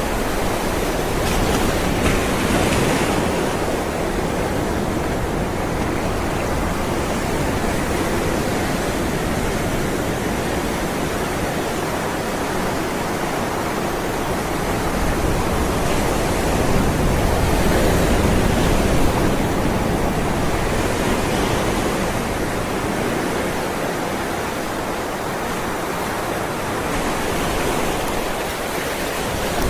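Ocean waves rolling onto a shore: a continuous wash of surf that swells and eases gently as waves break, loudest about two thirds of the way through.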